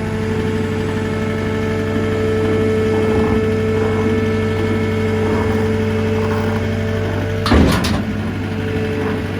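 Skid steer engine running steadily while a heavy load is put on a trailer, with a loud double knock about seven and a half seconds in.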